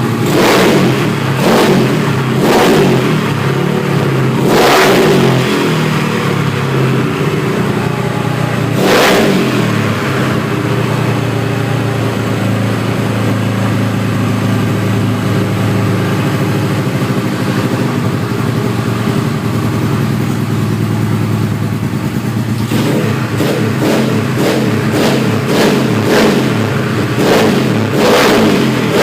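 Yamaha Mio scooter's bored-up 200 cc single-cylinder four-stroke engine idling, with sharp throttle revs: several in the first five seconds, one at about nine seconds, then a quick run of repeated blips near the end.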